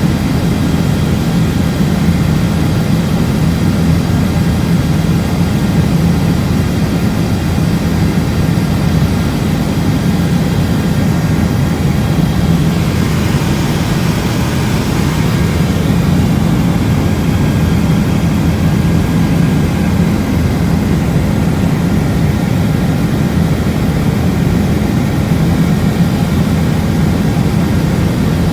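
Helicopter rotor and turbine engine drone heard from inside the cabin, loud and steady, with a brief rise in hiss about halfway through.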